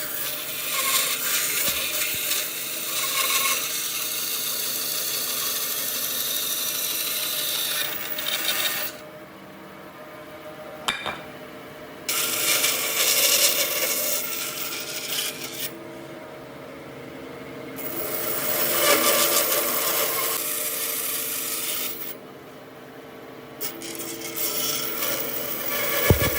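Wood being worked by hand with a rasping, abrasive tool: a harsh, rubbing noise in long passes, broken three times by short pauses.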